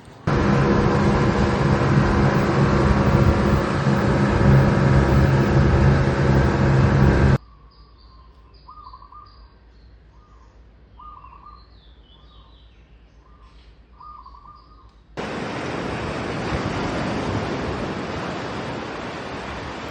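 An engine running loudly and steadily breaks off abruptly to a quiet stretch in which a bird calls repeatedly, about eight short calls. Then a steady rushing noise cuts in abruptly about two-thirds of the way through.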